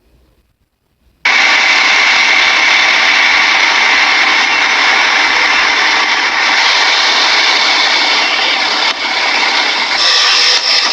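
A loud, steady roaring noise that starts abruptly about a second in and runs on without a break.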